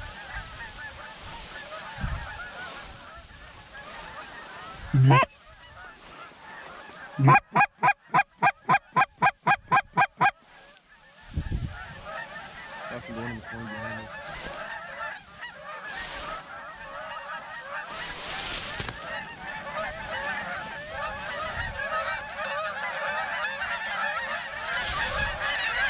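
A flock of geese honking and clamouring throughout, growing louder toward the end as the birds come in. About seven seconds in comes a fast, even run of about a dozen loud honks. Wind gusts buffet the microphone.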